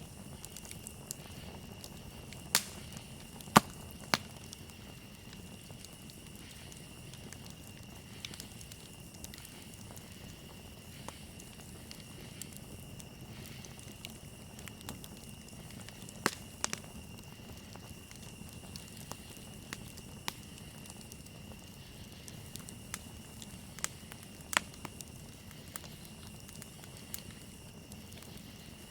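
Campfire crackling, with scattered sharp pops that are loudest a few seconds in, again around the middle and near the end, over a steady high chorus of crickets.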